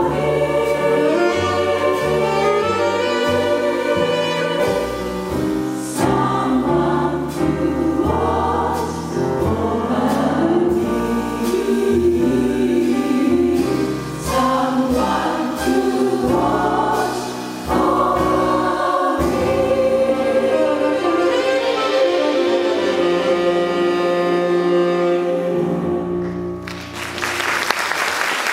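A jazz chorus sings the closing bars of a slow ballad in close harmony, over piano, bass and drums. The song ends on a long held chord, and the audience starts applauding just before the end.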